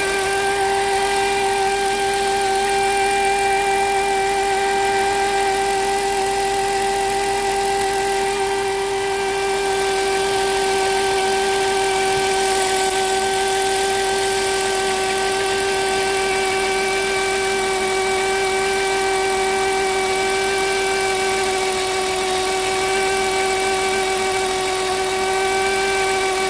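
Engine idling with a steady, unchanging whine from the alternator, which the owner is certain is a bad alternator bearing.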